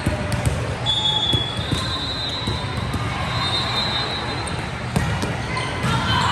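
Indoor volleyball being played in a gym: a few sharp slaps of the ball and high squeaks over a steady crowd hubbub, with the crowd getting louder near the end.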